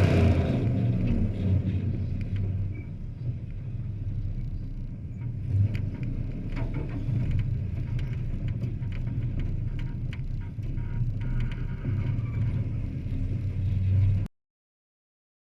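Race trucks' engines rumbling around a speedway oval, loudest at the start as they pass close, then a lower steady rumble from farther around the track with a few short clicks. The sound cuts off abruptly near the end.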